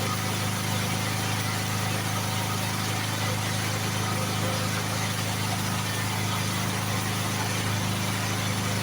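A steady low hum over an even hiss, unchanging in level.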